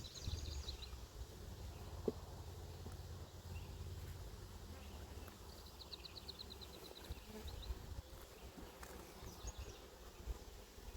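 Honey bees buzzing around an open hive while its frames are being inspected, a faint steady hum. A bird's rapid high trill sounds briefly near the start and again about halfway through.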